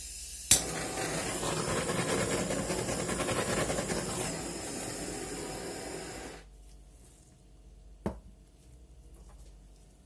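A hand-held tool switched on with a click, giving a loud steady hiss for about six seconds before it cuts off; another short click follows about two seconds later.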